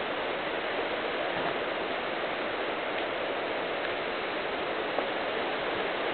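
Heavy hurricane rain pouring down steadily, a constant hiss.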